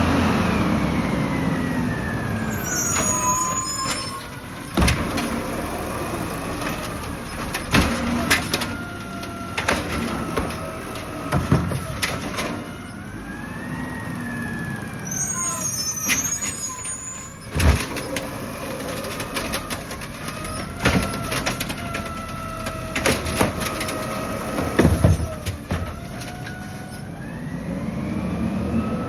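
Garbage truck emptying green-waste carts: its diesel engine runs up loud at the start and end, and its hydraulics whine up and down in pitch. Sharp knocks and thuds of the cart being lifted and shaken out come through the middle, with brief high squeals near the start and about halfway through.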